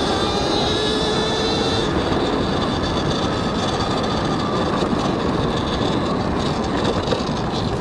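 Talaria X3 electric dirt bike being ridden: the motor's whine rises slowly in pitch and fades about two seconds in, under a steady rush of wind and tyre noise on the helmet mic.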